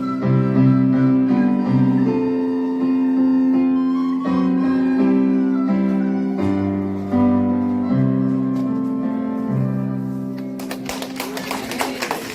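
Piano or keyboard playing slow, held chords that change about once a second, closing a hymn-like piece; about ten and a half seconds in, clapping breaks out as the music fades.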